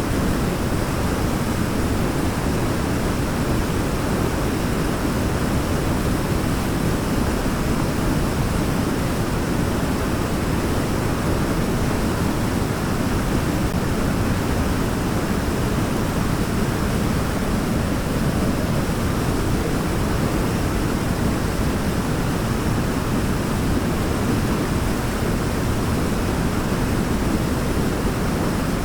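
Waterfall, water falling in a steady, unbroken rush with a deep low rumble.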